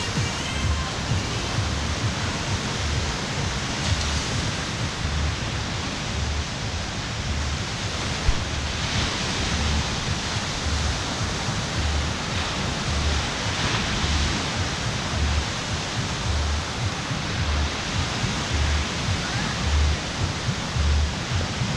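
Steady outdoor rush of noise, like surf and wind, with a low thump repeating about once a second throughout.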